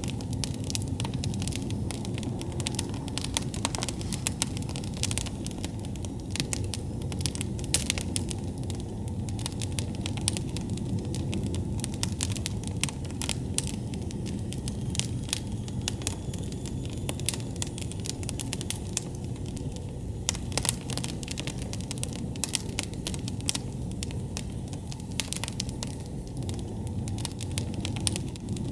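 Wood campfire burning, crackling with many irregular sharp snaps and pops over a steady low rumble.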